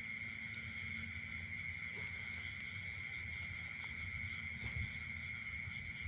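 Steady insect chorus of shrill, unbroken trilling, with a low rumble underneath.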